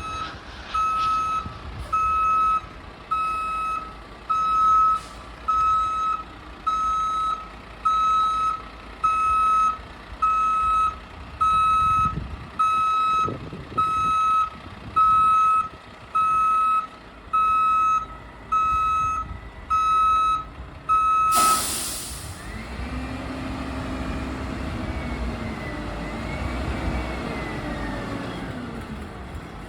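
A heavy truck's backup alarm beeping about once a second, some eighteen times. About two-thirds of the way in it stops with a sharp air-brake hiss, and the truck's engine then runs on, its pitch rising and falling.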